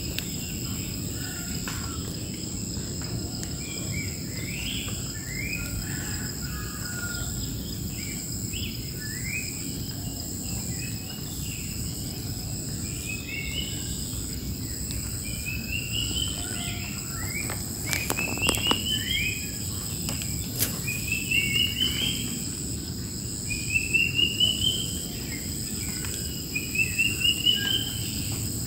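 Wild birds singing, with short rising chirps that settle into a repeated rising trill every couple of seconds in the second half, over a steady high buzz of insects at two pitches. Two sharp clicks come partway through.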